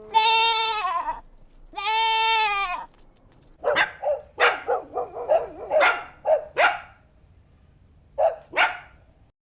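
Two long, slightly falling bleats, each about a second. Then a dog barks in a quick run of short, sharp barks, with two more barks near the end.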